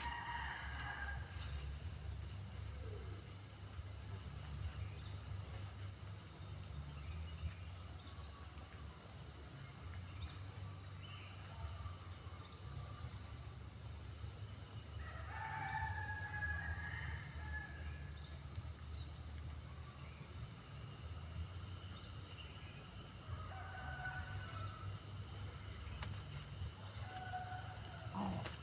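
Steady high insect drone over a low rumble, with a few distant bird calls, the clearest about halfway through and a couple more near the end.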